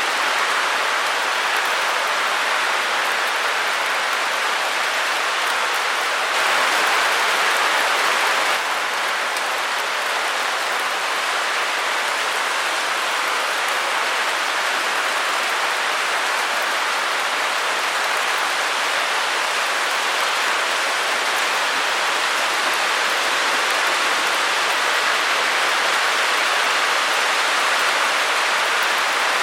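Steady white-noise hiss, even and unbroken, briefly a touch louder about six seconds in.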